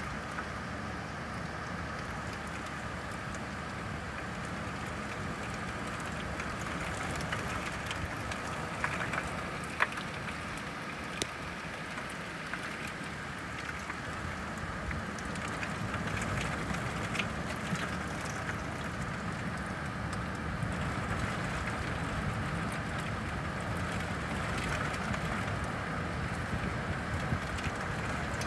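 Steady rain, an even hiss with a low rumble beneath it, and a few sharp taps about a third of the way in.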